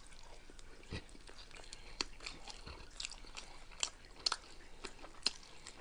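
Close-miked chewing and crunching of nachos, with scattered sharp crunches and mouth clicks.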